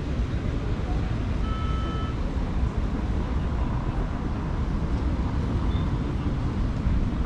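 Steady rumble of city street traffic, with a brief high tone about one and a half seconds in.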